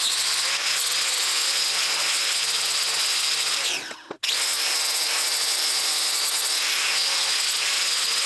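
Handheld power tool running at full speed with a steady high whine, stopping just after four seconds in, then starting again and winding down with falling pitch near the end.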